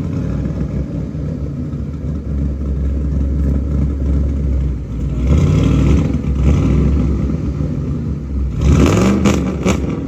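Car engine running with a steady low drone, revving up about five seconds in and again near nine seconds.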